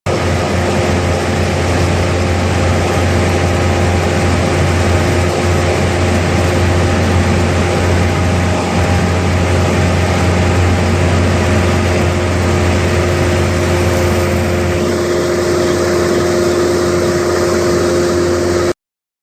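Cessna 172's single piston engine and propeller running steadily, heard from inside the cabin as a loud, even drone with a strong low hum and a steady higher tone. It cuts off suddenly near the end.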